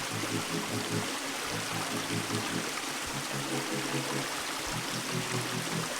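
Water of a creek rushing in a steady hiss, with soft background music of low notes underneath.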